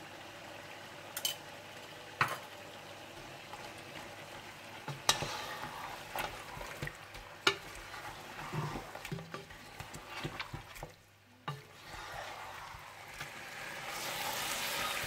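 Mutton with tomatoes and tomato paste frying and being stirred in ghee in a pot: a steady sizzle with a few sharp clicks of a utensil against the pot. The sound drops out briefly about eleven seconds in, then the sizzle grows louder near the end.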